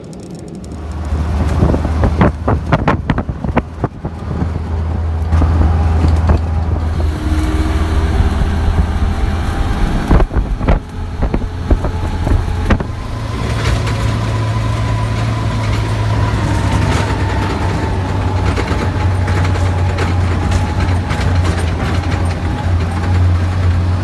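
A motor vehicle's engine running with a loud, steady low drone. There are sharp knocks and rattles a few seconds in and again about ten seconds in.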